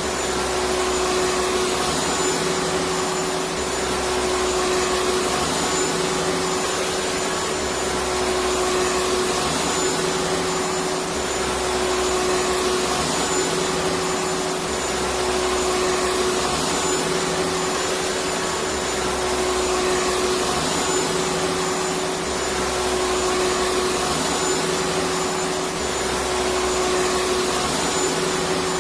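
Electric vacuum cleaner running steadily: an even rushing hiss over a constant motor hum, with a faint low throb repeating every couple of seconds.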